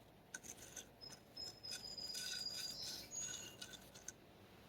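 Faint light clicks and small metallic clinks as parts and tools are handled during axle work, with a thin, high steady tone lasting about a second and a half near the middle and a brief higher one just after.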